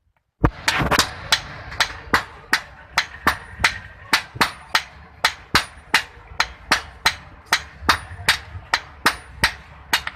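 Hand hammer beating a knife blade of hot iron on an anvil in a steady rhythm, about two to three blows a second, each with a short metallic ring. A low steady hum sits underneath.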